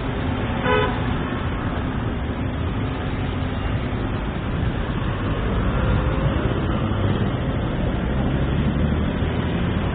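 Steady city street traffic noise, a dense rumble of passing vehicles, with a short pitched sound under a second in.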